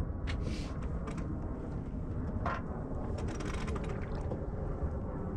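Sailboat deck hardware clicking and ratcheting, like a sheet winch or blocks, in scattered clicks and a quick run of clicks past the middle, over a steady low rumble.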